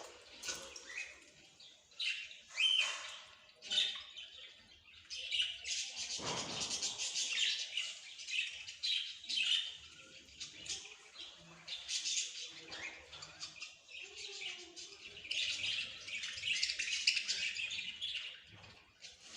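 Small birds chirping and twittering rapidly, many short calls overlapping, with busier stretches about five seconds in and again near the end.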